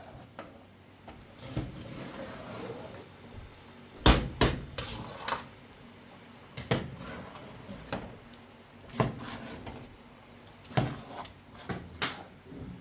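Irregular sharp knocks and clatters of hard objects being handled, about a dozen in all, the loudest about four seconds in.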